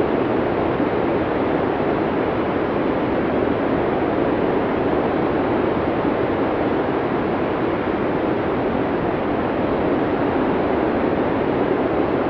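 Blizzard wind: a steady, dense rush of wind noise, strongest in the low-middle range, holding an even level without gusts or whistles.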